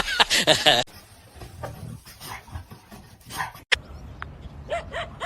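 A dog panting, with a few short high whimpers near the end; a loud sound carried over from the previous clip, voice-like, cuts off just under a second in.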